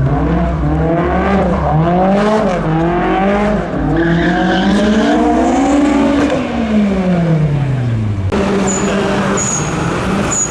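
Car engine revving hard up and down again and again while drifting and doing donuts, with tyre squeal about four to five seconds in. Then the revs fall away in one long drop, and the sound changes abruptly to a steadier engine noise near the end.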